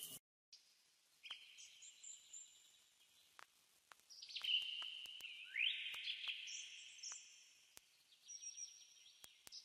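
Faint birdsong: several high chirping and trilling calls, one rising sweep a little past halfway, with scattered soft clicks.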